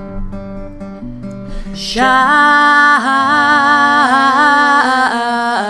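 Acoustic guitar strumming, with voices coming in about two seconds in and holding long, wavering notes over it.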